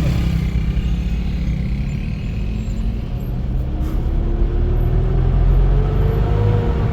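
A motor vehicle's engine running with a steady low rumble; about halfway through its pitch rises slowly, then falls again near the end.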